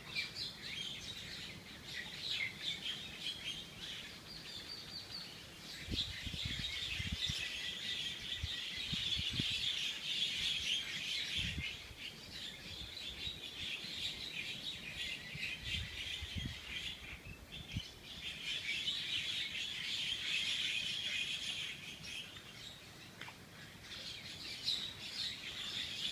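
Many small birds chirping and calling at once in a dense, unbroken chorus, with a few low rumbles under it about six seconds in and again around sixteen seconds.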